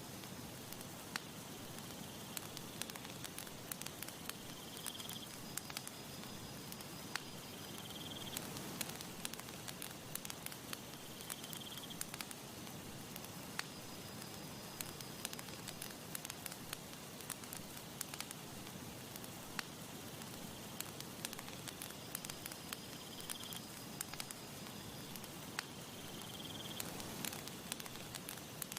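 Campfire crackling, with frequent sharp pops over a steady hiss. Faint short high chirps recur every few seconds in the background.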